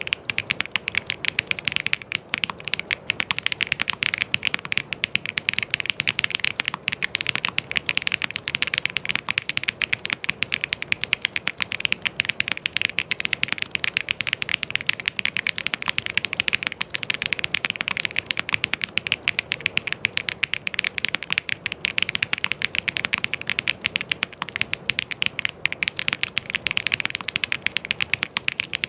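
Fast, continuous typing on a mechanical keyboard: dense key clicks many times a second, with no pauses.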